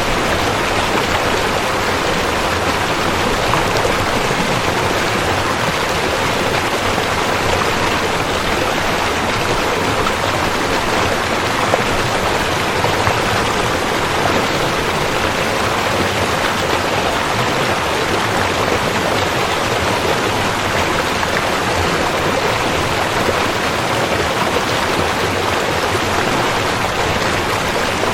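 A river flowing with steady rushing water.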